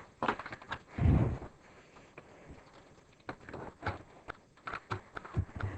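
Vacuum cleaner attachment tools being handled: scattered clicks and knocks, with one heavier thump about a second in.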